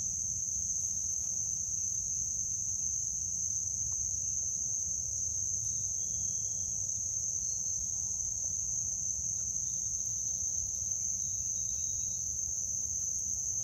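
Steady, unbroken high-pitched insect chorus, crickets or similar, over a low steady rumble.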